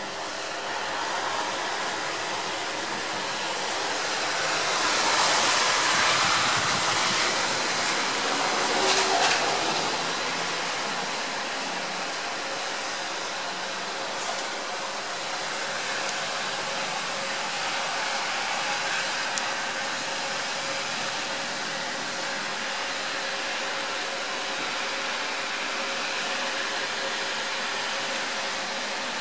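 Light rain falling as a steady hiss. It swells for several seconds, from about four to ten seconds in, then settles back.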